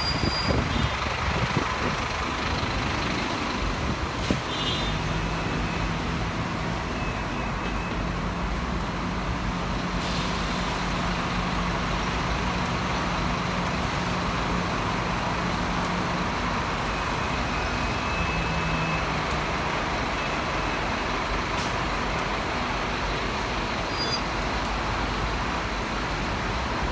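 Tour bus running through city traffic, heard from aboard: a steady rumble of engine and road noise, with a low engine hum that rises out of it from about five seconds in and fades near the middle.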